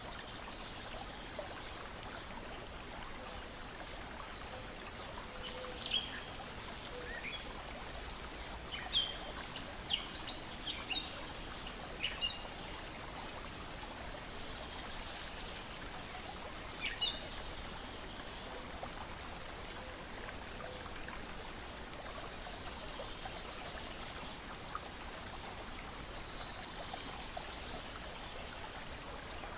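Lake water lapping steadily, with birds chirping in a flurry of short calls from about six to twelve seconds in and a few more a little later.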